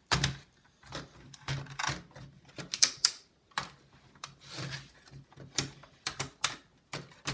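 Irregular sharp clicks, taps and knocks of laptop parts being handled: cable connectors unplugged and the motherboard worked loose from the plastic chassis.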